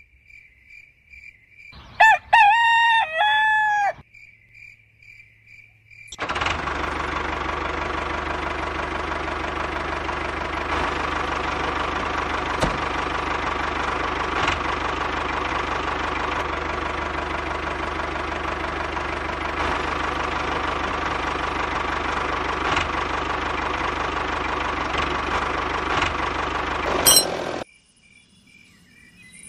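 A rooster crows once, about two seconds in. From about six seconds a small motor runs steadily for some twenty seconds, then cuts off suddenly near the end.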